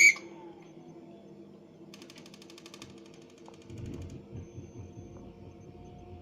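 Bosch Gaz 6000 gas boiler's exhaust fan running with a steady hum and a thin squeak: metal-on-metal friction from the fan impeller slipping on its motor shaft. A sharp click comes at the start, a rapid ticking lasts about two seconds, and a low rumble joins about four seconds in.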